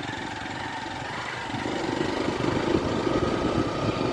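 Small motorcycle engine running under way, its pulsing note getting louder about a second and a half in as the throttle opens.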